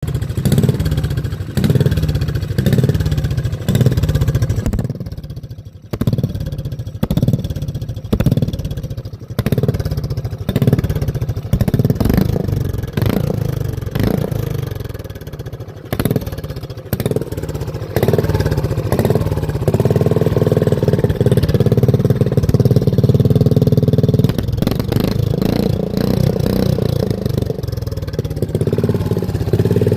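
Mini bike engine revved in repeated short blips, roughly one every second and a half, then held at higher revs from about halfway through. With the broken chain removed, the freely spinning drive part clanks along with it.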